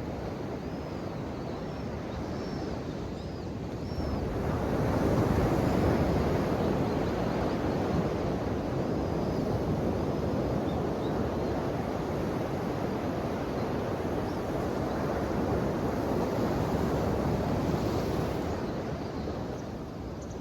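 Ocean waves washing onto a shore in a continuous rush, swelling louder about four seconds in, surging again later and easing near the end.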